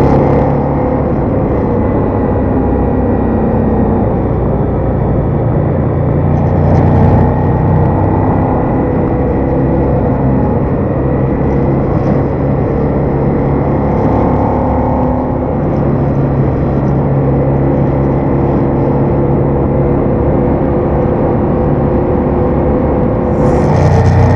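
Ducati Diavel motorcycle engine running continuously, its note rising and falling with the throttle, getting louder about seven seconds in and again near the end.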